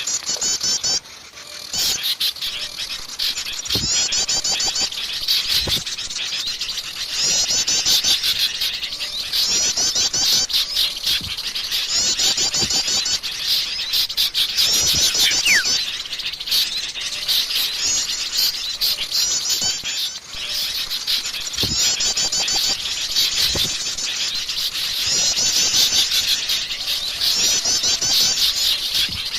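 Bird-lure recording of many small songbirds calling noisily at once. Rapid chattering bursts about a second long repeat every couple of seconds over continuous chirping, with a single falling whistle about halfway through.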